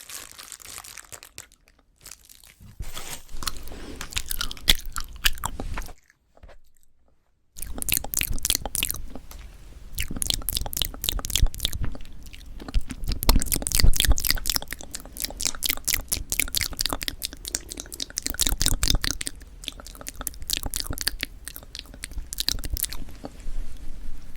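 Close-miked biting and chewing of a tough, over-firm marshmallow pop: a dense run of sticky, crackling clicks with soft low thuds of the jaw. The chewing breaks off for a moment about six seconds in, then resumes more busily.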